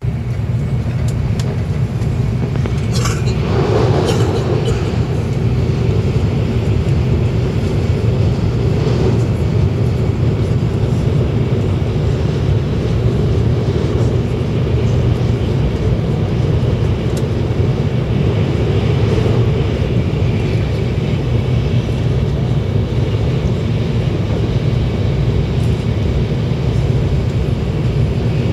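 Steady low rumble and rushing noise of an N700 series Shinkansen running at speed, heard from inside the passenger cabin. A short click and a brief brighter rush come about three seconds in.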